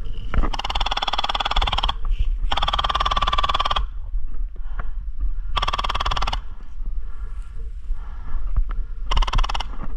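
Airsoft electric gun firing full-auto bursts: four rattling bursts of a second or so each, with pauses between. Wind rumbles on the microphone throughout.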